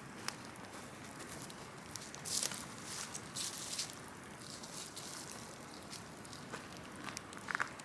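Large wood-and-brush bonfire crackling, with irregular sharp pops and snaps over a steady low hiss.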